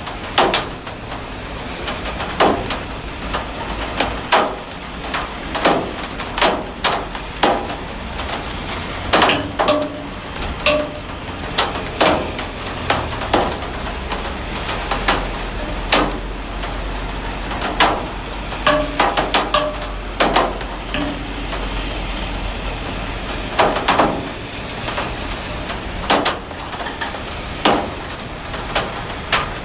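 Heavy rain falling steadily, with frequent irregular knocks of large drops hitting a hard surface close by, some with a short ringing tone. A low rumble swells through the middle.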